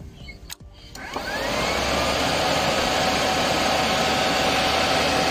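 A click, then about a second in a motor starts up with a rising whine and settles into a loud, steady whir.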